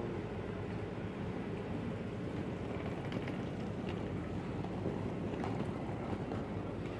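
Intercity passenger train rolling away along the track past the platform, a steady low rumble.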